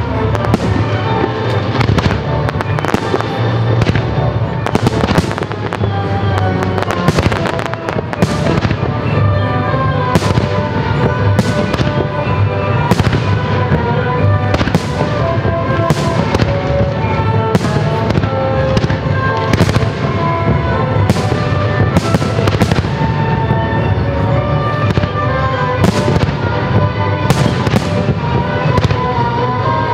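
Aerial firework shells bursting, a dense run of sharp bangs about a second apart, with music playing throughout.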